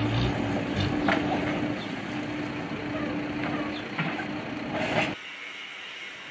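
A vehicle engine running steadily with a hum, over a hissing, crackling background with a few sharp cracks. It all cuts off abruptly about five seconds in, leaving quieter outdoor noise.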